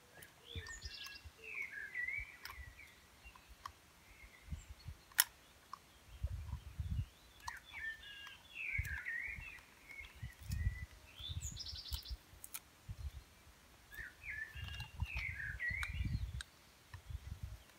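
A songbird singing three short bursts of quick warbling, chirping phrases, about six seconds apart, with low rumbles and knocks underneath.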